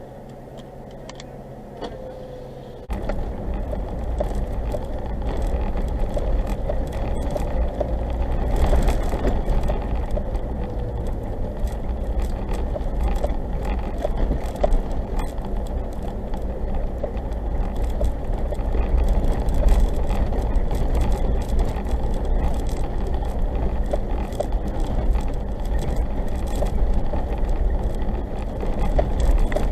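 4x4 driving along a rough, snowy track: a steady low rumble of tyres and drivetrain with frequent small knocks and rattles. For the first three seconds there is only a quieter engine hum, then the rumble starts abruptly.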